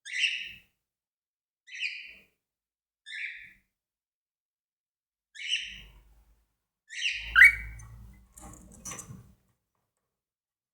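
A cockatiel gives a string of about six short, harsh chirping calls, a second or two apart; the loudest, about seven seconds in, drops in pitch. A scratchy rustling follows for about a second and a half.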